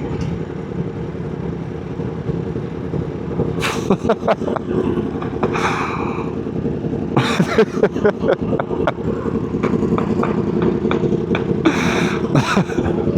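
Motorcycle engine idling steadily, with several short sharp clicks and knocks over it, the loudest about 7 and 12 seconds in.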